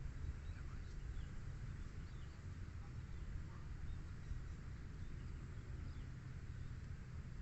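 Outdoor rural ambience with a steady low rumble and a few faint, short bird chirps scattered through it.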